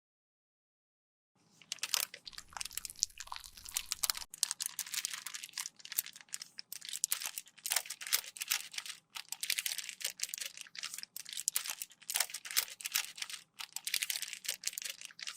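Close-up crunching and crackling of a cosmetic product being crushed and worked with a tool, a dense run of sharp little crackles starting about a second in.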